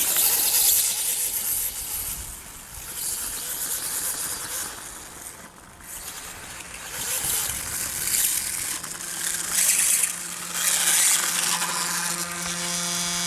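Electric RC dirt bike running over dirt, its motor and tyres surging louder and quieter several times. A steady low hum joins about two-thirds of the way in.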